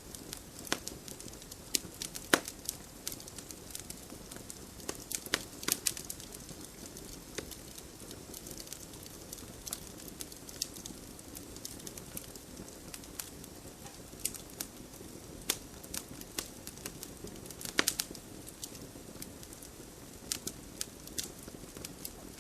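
Wood campfire burning: a steady soft rush of flame with frequent sharp, irregular crackles and pops. The loudest pops come about two seconds in and again about three-quarters of the way through.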